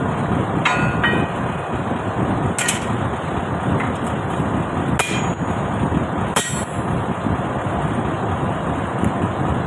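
Four sharp metal strikes, a second or two apart, during work on a truck's leaf spring, over the steady rumble of a truck engine running.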